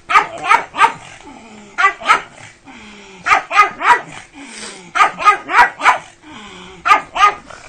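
Pug barking excitedly in quick runs of two to four short barks, with a pause of about a second between runs.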